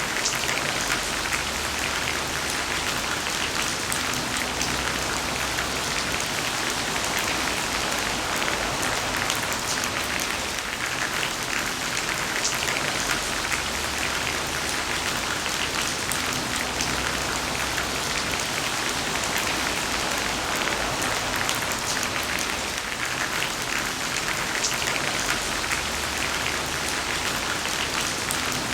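Heavy rain falling steadily, a dense hiss of drops with fine individual spatters on a hard surface.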